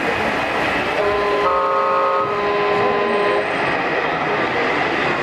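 A multi-tone horn sounds a chord of several steady notes for about two seconds, starting about a second in, over a constant busy background of hall noise.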